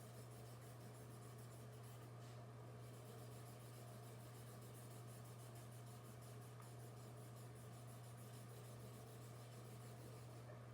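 Near silence: faint scratching of drawing on paper, over a steady low electrical hum.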